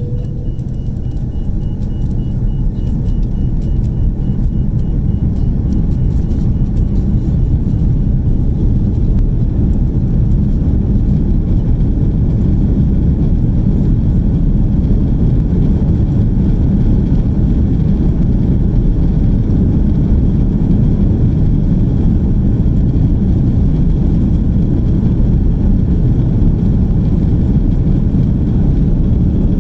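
Airbus A330-300 heard from the economy cabin on its takeoff roll: jet engines at takeoff power and a loud, steady low rumble, building over the first few seconds and then holding.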